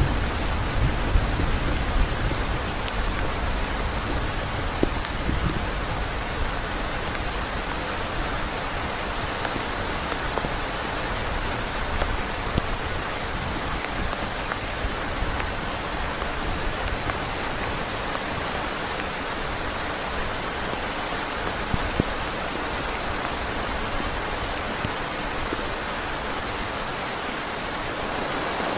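Heavy rain beating steadily on a tent, with scattered louder drop ticks. A low rumble of thunder fades away over the first few seconds.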